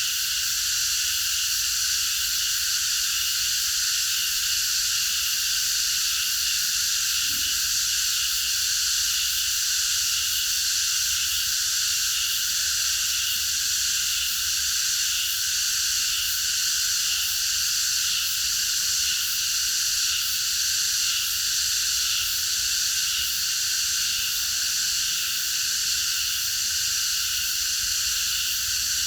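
Chorus of many cicadas singing together: a dense, steady, high-pitched buzz that keeps on without a break.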